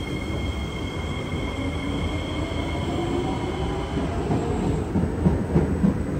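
Kawasaki C151B metro train running through a station without stopping: a steady high whine and rail noise, with a lower tone rising in pitch. The whine stops about two-thirds of the way through, and a run of loud knocks follows as the last cars pass.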